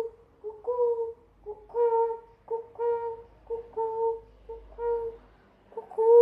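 A child's voice imitating a pigeon's coo: short hummed 'gu gu' notes at one steady pitch, coming in pairs about once a second.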